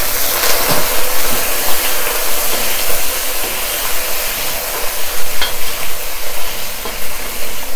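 Raw prawns and garlic sizzling in hot oil in a steel wok as they are stirred with a spatula, which now and then scrapes or taps against the pan.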